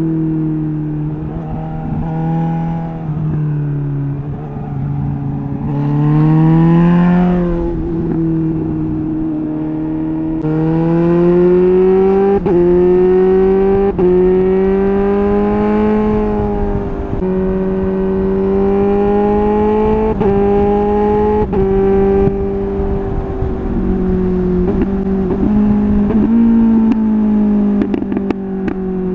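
Suzuki GSR 750's inline-four through a MIVV Double Gun exhaust, pulling hard through the gears. The engine note climbs and dips slightly at each quickshifter upshift, several times over. Near the end it settles lower, with a run of short sharp pops and clicks.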